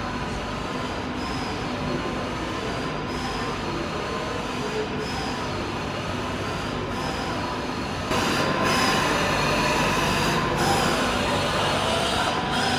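A train moving through a railway station, its wheels squealing steadily on the rails. It gets louder and brighter about eight seconds in.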